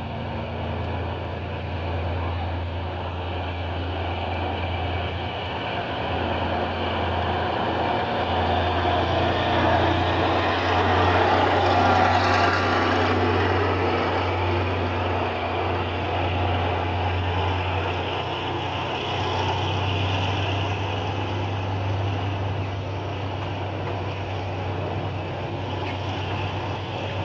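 Diesel locomotive engine running with a steady low drone as a train rolls through, the noise growing loudest about halfway through.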